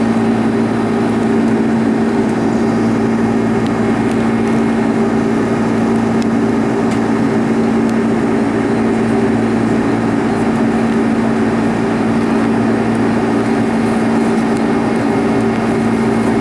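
Steady jet engine noise inside an Airbus A310 cabin: an even rush with a constant low droning hum.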